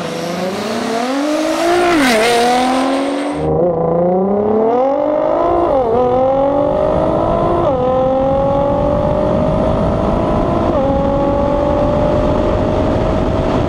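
Twin-turbocharged 7.3-litre Hemi V8 in a Jeep SRT-8 at full throttle in a roll race, the pitch climbing through each gear and dropping sharply at four upshifts. A heavy low rumble joins about a third of the way in.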